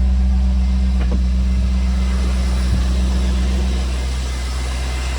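A 2001 Corvette LS1 5.7-litre V8 running steadily at idle, easing slightly in level about four seconds in, with no knocking or ticking, which the seller takes as the sign of an engine in top shape.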